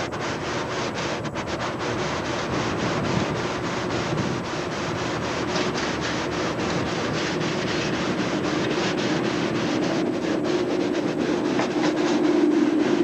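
A train running through the station, with a steady hum that grows louder toward the end, over wind noise on the camcorder microphone.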